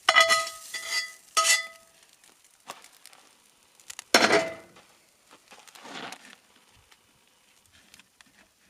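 Metal cooking utensils clinking and clattering against cookware at a camp stove: three ringing metallic clinks in quick succession, then a louder clatter about four seconds in and a softer one a couple of seconds later, with faint sizzling from the pan between them.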